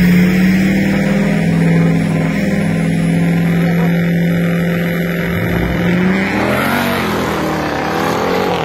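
Jeep Grand Cherokee Trackhawk's supercharged 6.2-litre Hemi V8 held at steady revs on the start line beside a diesel pickup. About six and a half seconds in, both launch and the engine notes rise as they accelerate away.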